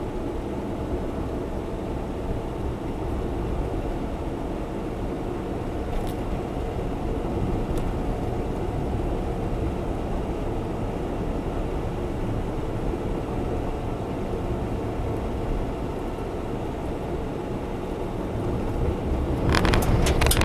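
Steady road and engine noise inside the cabin of a Honda Zest Spark kei car while it is driven. A quick run of sharp clicks near the end.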